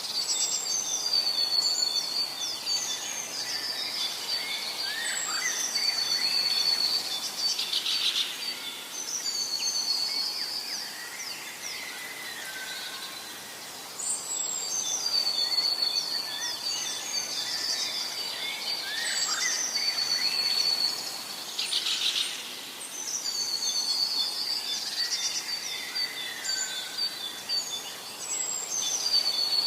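Forest birdsong: several songbirds singing, one repeating a high trilled phrase every few seconds, with lower chirps between, over a steady dotted high tone.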